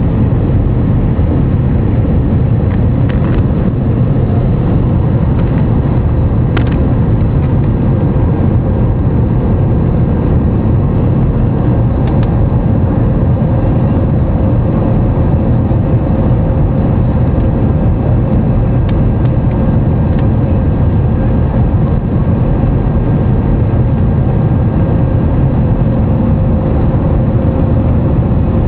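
Airbus A320's twin jet engines running at high thrust during takeoff, heard inside the passenger cabin as a loud, steady, low rumble with a faint steady hum.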